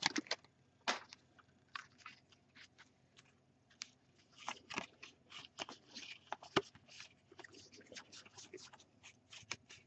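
Faint, scattered clicks and crisp rustles of trading cards being handled and flipped through one by one.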